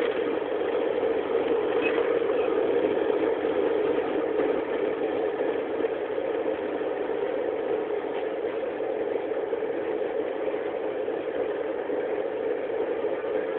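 Steady roar of jet airliner engines and airflow heard from inside the passenger cabin during the climb, easing slightly in loudness about halfway through.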